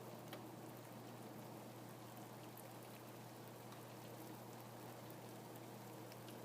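Steady rain falling, with scattered individual drops ticking through an even hiss, and a steady low hum underneath.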